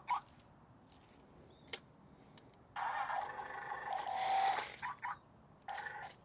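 Toy remote-control drift car switched on with a couple of clicks, then its small electric motors whirring at a steady pitch from about three seconds in, with a short break near the end.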